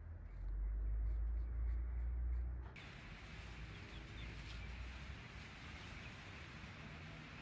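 A loud low rumble for the first two and a half seconds, then it cuts off sharply. After that comes steady outdoor background hiss with faint, scattered bird chirps.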